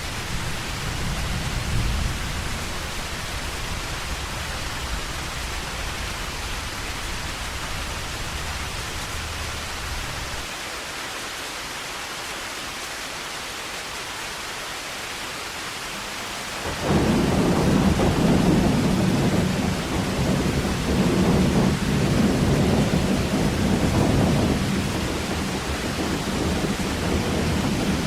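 Heavy rain falling in a steady hiss. A low rumble fades out about ten seconds in, and about seventeen seconds in a loud roll of thunder breaks in suddenly and keeps rumbling in swells.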